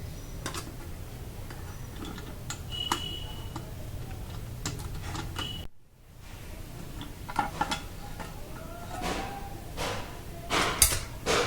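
Metal clicks, clinks and scrapes as screws are taken out of an electric rice cooker's base and its metal bottom cover is handled. The sound drops out briefly about halfway through, and louder knocks and clatters come near the end.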